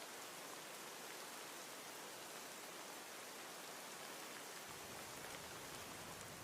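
Steady rain, an even hiss of falling drops; about three-quarters of the way through a low rumble joins underneath.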